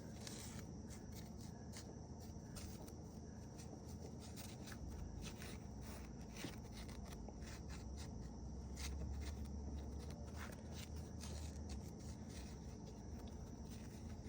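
Faint, scattered clicks and rubbing from hand work on the engine as dripped oil is cleaned off with brake cleaner and a rag.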